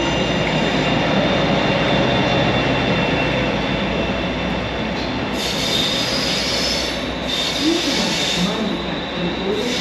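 A train running slowly on the rails with continuous track noise, wheel squeal in short gliding tones and two stretches of hissing in the second half.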